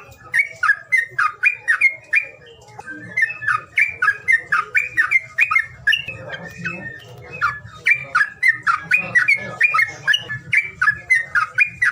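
A songbird calling in a rapid chattering run of short, sharp, squeaky notes, several a second, with brief lulls.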